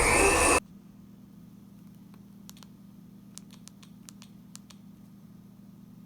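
A loud, dense sound cuts off abruptly just after the start, leaving quiet room tone with a faint low hum and a scattering of faint, light clicks.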